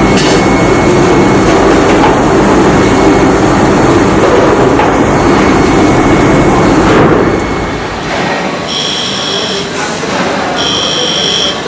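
Loud, harsh industrial machinery running for about seven seconds, then quieter machine noise with a high-pitched electronic warning beep sounding in pulses of about a second, with short gaps between them.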